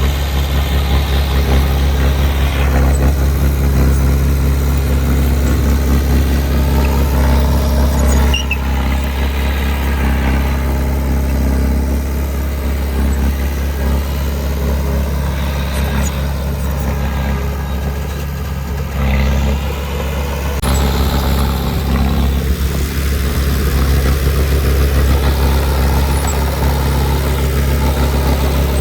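Heavy diesel engine of a construction machine running steadily, its deep even hum holding with small changes in pitch now and then.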